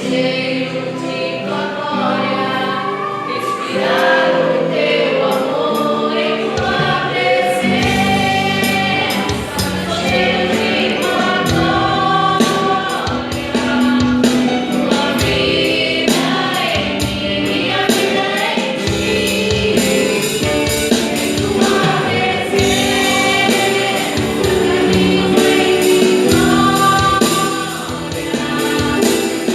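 Christian gospel vocal group singing in harmony with band backing. Bass and drums come in about six and a half seconds in.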